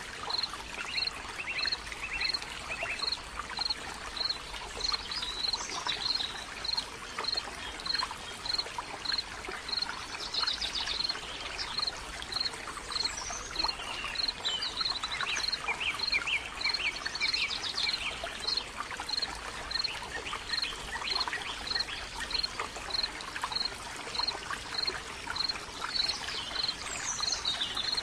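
Outdoor bird ambience. A thin, high note repeats steadily about every three-quarters of a second. Short trilled bird calls come now and then, over a steady rushing hiss.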